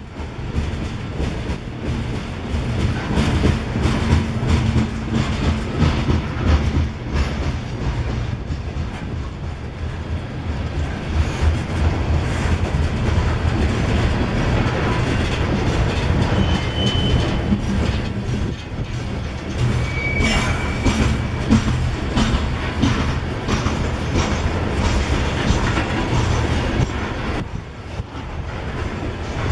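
Freight grain train rolling past, its wheels clacking over the rail joints under a steady low rumble, with two brief high wheel squeals past the middle.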